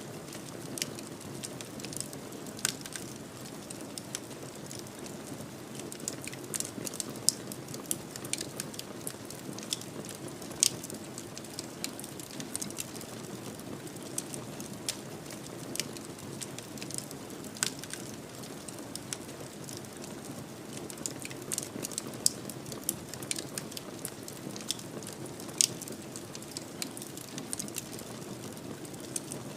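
Fireplace fire crackling: irregular sharp pops and snaps, some much louder than others, over a steady low rush of flame.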